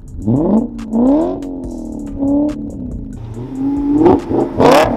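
BMW E39 M5's V8, straight-piped with an X-pipe and muffler delete, revving hard in repeated bursts as the car drifts, the pitch rising with each rev. A loud sharp burst sounds near the end.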